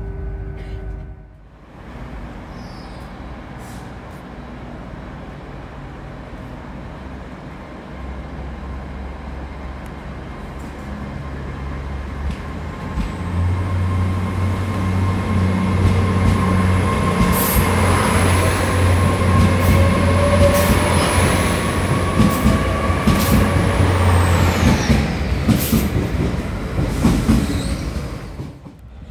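A train moving through a station platform: a low drone that builds up and grows much louder about halfway through, with a high, thin whine over it while it is loudest, then dying away near the end.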